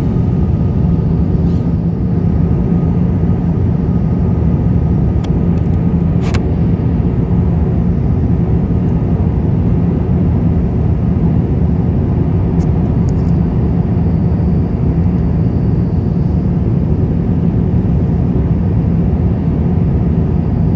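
Steady rushing roar of an Airbus A350-1000 airliner in flight, a dense low rumble with a faint steady hum under it. A faint click comes about six seconds in.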